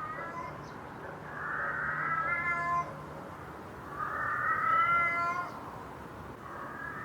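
Two drawn-out, meow-like animal calls with a rising pitch, each lasting about a second and a half, the first about a second in and the second about four seconds in, with fainter similar calls at the start and near the end.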